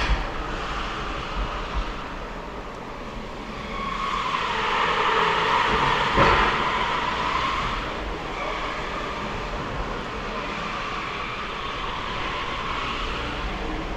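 Electric BMW on a test run, heard from inside the cabin: steady tyre and road noise with the drive motor's whine, which dips in pitch and then climbs again about halfway through, where it is loudest.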